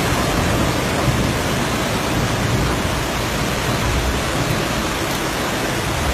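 Floodwater rushing in a loud, steady roar of noise, heaviest at the low end.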